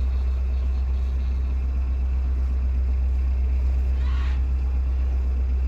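Narrowboat diesel engine running steadily at cruising speed, a constant low rumble. A faint brief sound shows about four seconds in.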